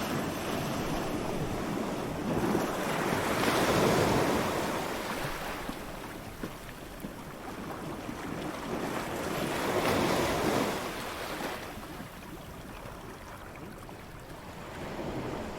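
Waves breaking and washing up a beach, two swells of surf about six seconds apart, rising and falling away, over a steady wash of sea and light wind.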